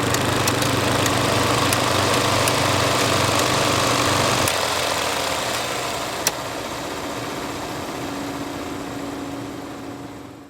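Film projector mechanism running with a steady mechanical whir and faint ticking. About four and a half seconds in, the deep motor hum drops away and a lighter whir runs on, with one sharp click a little later, before the sound fades out near the end.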